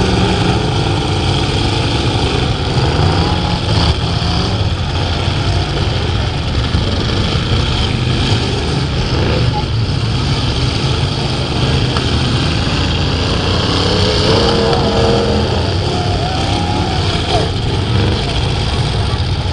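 Several full-size truck and van engines running loud and steady as they race. A PA announcer's voice is faintly audible under them.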